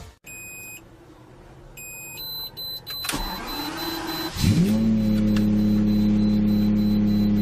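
Lamborghini Diablo V12 start-up: two short electronic beeps, the starter engaging about three seconds in, then the engine catching with a quick rise in revs about four and a half seconds in and settling into a steady idle.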